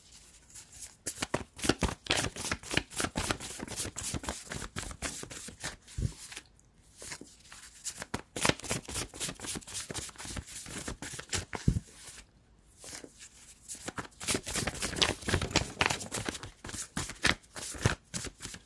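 A deck of tarot cards being shuffled by hand: three runs of quick papery clicks, with short pauses about six and twelve seconds in.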